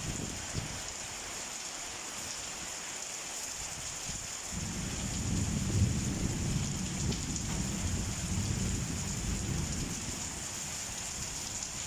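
Summer thunderstorm: steady rain falling throughout, with a long low roll of thunder that comes in about four seconds in and rumbles for several seconds before dying away.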